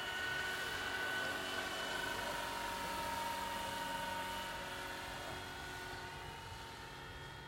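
Radio-controlled JetRanger scale model helicopter in flight: a steady whine from its motor and rotors, getting a little fainter near the end.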